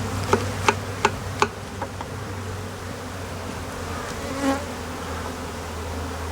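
Honeybees from an opened nest buzzing in a steady low hum, with four sharp clicks in the first second and a half.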